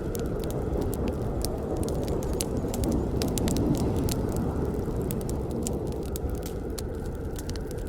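Campfire burning with a steady low rush of flame and many sharp, irregular crackles and pops of wood.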